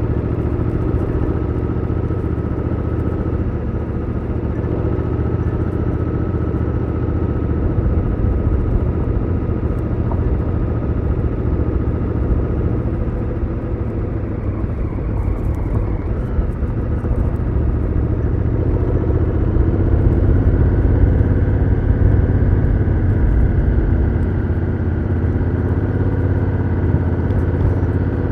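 Honda Africa Twin CRF1000L's parallel-twin engine running on its stock exhaust, heard onboard while riding. It eases off a little about halfway through, then pulls louder again about two-thirds of the way in.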